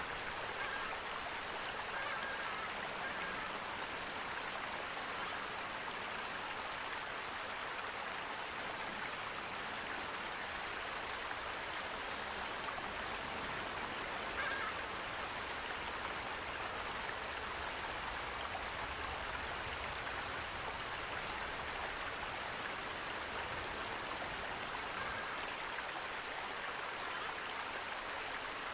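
Steady rushing of running water, with a few faint short sounds over it and one brief sharper sound about halfway through.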